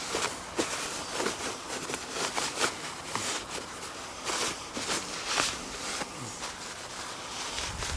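A cloth rag being rubbed and wiped over an outboard motor's metal: irregular short rustling, scrubbing strokes, a few of them longer.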